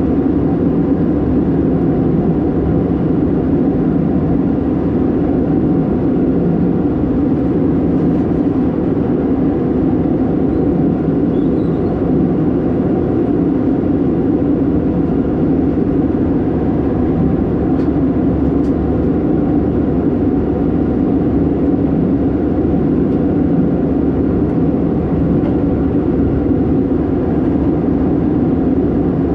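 Steady cabin drone of an Airbus A319-112 in flight, heard from a window seat: engine and airflow noise with a low, even hum that holds constant.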